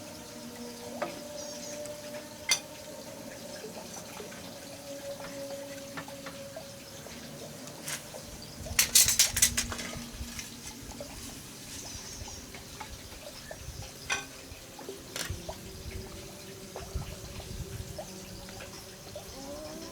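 Water being handled, with scattered sharp knocks and a short burst of rapid clattering about halfway through.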